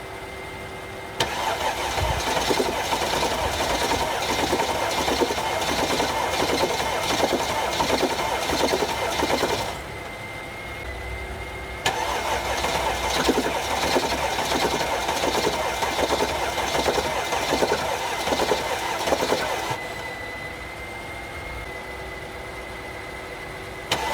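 A diesel engine being cranked by its starter in deep cold, in a slow, even rhythm, without catching. Two cranking attempts of about eight seconds each are separated by short pauses, and a third begins at the very end.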